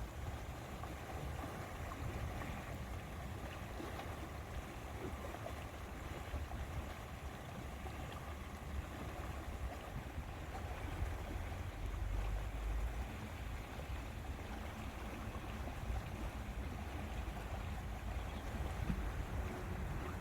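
Lakeside ambience: steady wind with water lapping at the shore, and a low rumble of wind on the microphone that swells briefly about halfway through.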